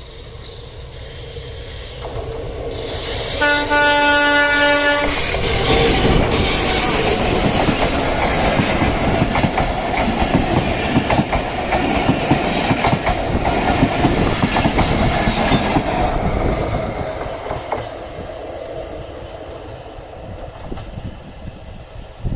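Train horn sounds once, for about a second and a half, a few seconds in. Then the loud noise of the train's wheels on the rails builds, holds for about ten seconds as the train passes close by, and fades away.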